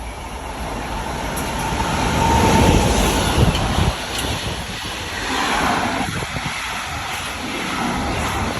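A train passing at speed: a rushing rumble that builds to its loudest about three seconds in, then settles into a steady rush.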